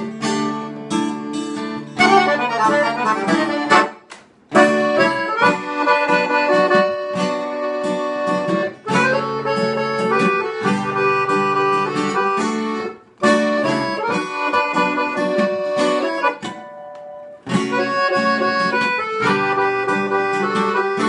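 Accordion playing the instrumental intro of a sertanejo song, with an acoustic guitar strumming along. The playing breaks off for a moment a few times, with a softer passage near the end.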